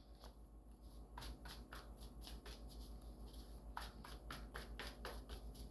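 Deck of reading cards being shuffled and handled: faint, scattered soft flicks and rustles.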